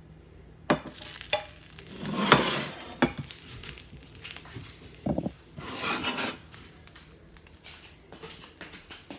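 A spatula scraping and stirring cauliflower fried rice in a pan, with a few sharp knocks against the pan and two or three longer scrapes.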